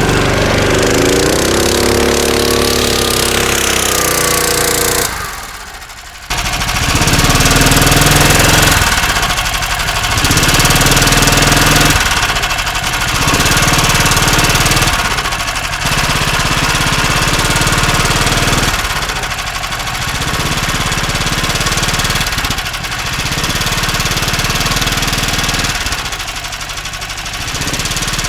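Small engine of a motorized snow tug working hard under load while ploughing up a slope in deep, loose snow. Its revs rise and fall, drop off sharply about five seconds in and pick up again a second later, then surge and ease off every few seconds as the throttle is worked.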